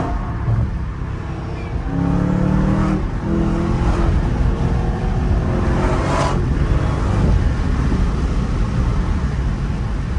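Supercharged 6.2-litre HEMI V8 of a Dodge Challenger SRT Hellcat Redeye heard from inside the cabin, pulling under acceleration from about 60 to 80 mph, with heavy tyre and wind noise.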